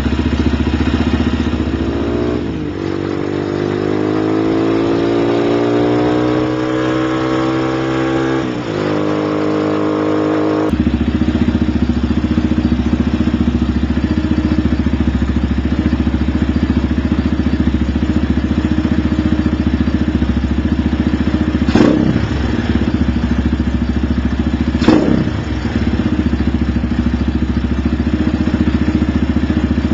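Lifan LF200-B motorcycle engine through its Iridium exhaust. The revs climb steadily for several seconds, drop sharply, then settle into a steady lower run, with three brief knocks in the second half.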